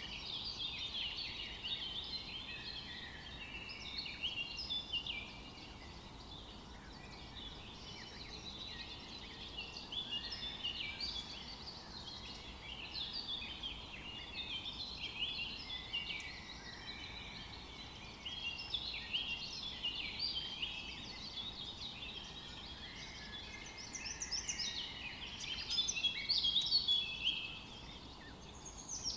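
A chorus of small birds chirping, many short overlapping calls, briefly louder a few seconds before the end.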